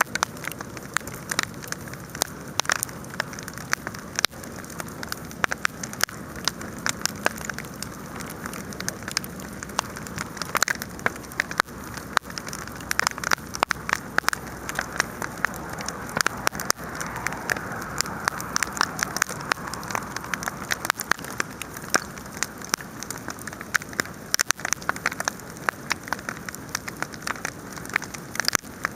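Wood campfire burning, with dense, irregular crackles and pops over a steady hiss; the hiss swells a little for a few seconds past the middle.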